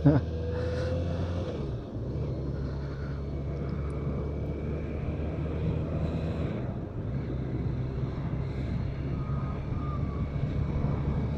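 BMW K1200RS motorcycle's inline four-cylinder engine running steadily under way, with wind and road noise over the microphone; its level dips briefly about two seconds in.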